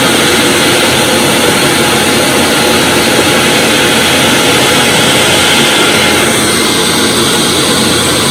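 Hoover WindTunnel Supreme upright vacuum cleaner running at full power, a loud steady motor and fan noise. It keeps running because of a faulty power switch that does not shut it off properly, which the owner puts down to a bad or stuck switch.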